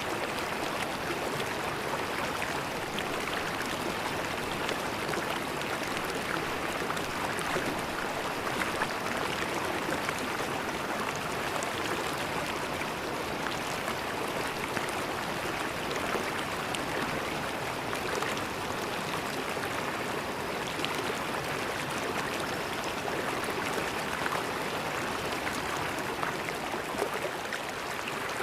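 River water flowing steadily over rocks in a shallow stream, an even rushing and gurgling.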